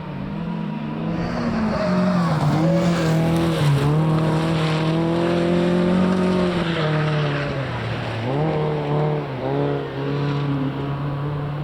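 Rally car engine revving hard as it comes up. Its pitch drops sharply and climbs again several times as the driver lifts off and changes gear.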